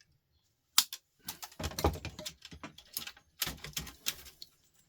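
Small metal parts and tools being handled while an old record player is taken apart: a sharp click about a second in, then two bouts of clicking and rattling.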